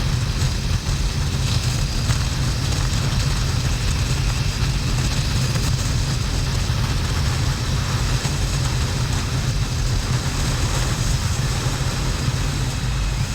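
Rushing wind noise and the engine of a 2009 Harley-Davidson XL1200N Sportster, an air-cooled V-twin, running at a steady cruise with no change in pace.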